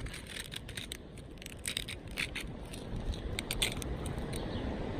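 Light scraping and scattered small clicks of objects being handled, as a small can is fetched from a purse and set under a net to prop it up.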